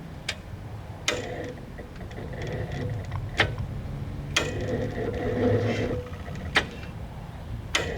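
Electric starter cranking the cold single-cylinder Wisconsin S8D engine of a Bolens 850 tractor without it catching. The starter whirs, with a sharp click every second or two, and is really having issues turning the engine over.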